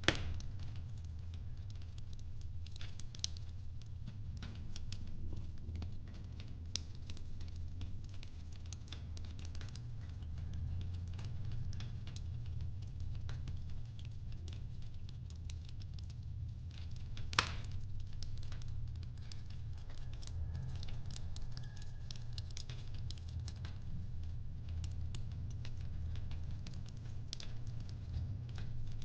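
Wood fire crackling in a fireplace: irregular small pops and ticks over a steady low rumble, with a sharper pop at the start and another a little past halfway.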